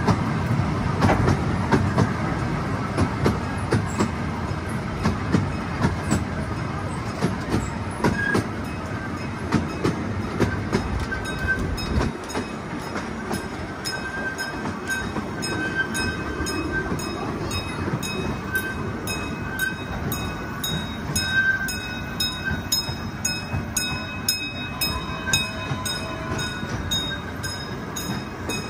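Small amusement-park train running along its track, heard from an open carriage: a steady rumble of the wheels with frequent clicks over the rails. Faint short squeals come and go.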